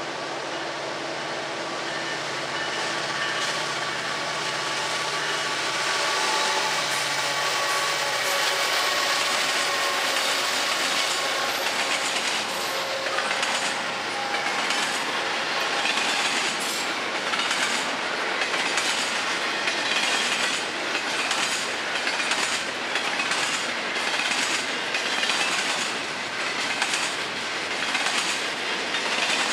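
Florida East Coast freight train: its two diesel locomotives approach with a steady engine drone that grows louder over the first several seconds. Then double-stack intermodal container cars roll past with a regular clickety-clack of wheels over the rail joints.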